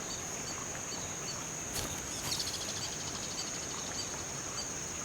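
Riverside nature ambience: a steady high insect drone with faint chirps repeating about twice a second, and a short bird twitter about two seconds in.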